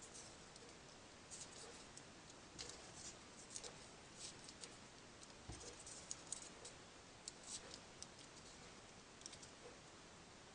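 Faint, irregular clicks and rustles of folded paper origami units being slotted onto a row of a modular 3D origami model.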